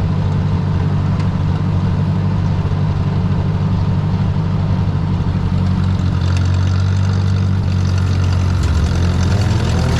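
Ford 641 tractor's four-cylinder engine running steadily near full throttle in first gear while pulling a PTO-driven brush hog through tall grass.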